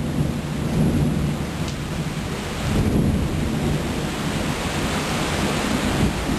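Heavy rain pouring down in a thunderstorm, a steady hiss with a continuous low rumble of thunder underneath.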